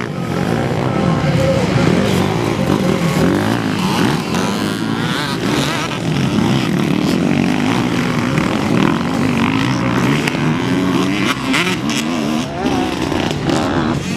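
Several motocross bike engines racing, their pitch rising and falling as they rev up and shift on the track.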